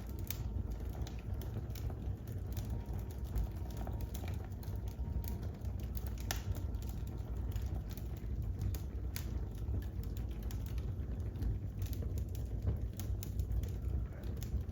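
Wood fire crackling in a fireplace: a steady low rumble under frequent, irregular sharp pops and snaps.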